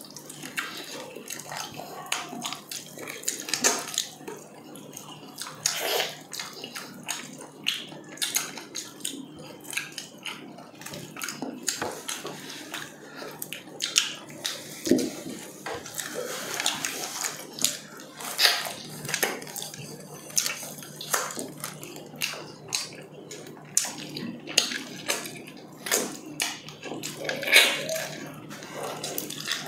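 Close-miked wet chewing and lip-smacking of people eating meat and rice with their hands, an irregular run of short clicks and smacks, over a faint steady low hum.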